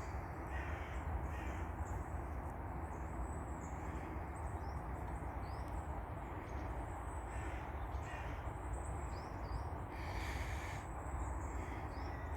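Crows cawing several times, the loudest call about ten seconds in, over a steady low outdoor rumble, with a few short high bird chirps.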